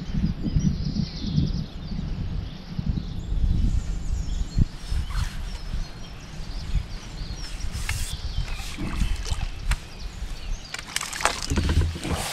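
Wind buffeting the microphone in gusts by a lake. A few sharp knocks and rustles of handling come through near the end.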